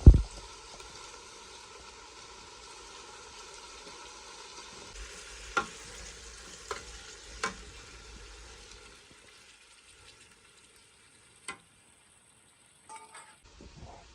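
Food sizzling in hot oil in a pan, with a few sharp clicks of a utensil against the pan. It opens with one loud thump, and the sizzle dies away about nine seconds in, leaving a few scattered knocks.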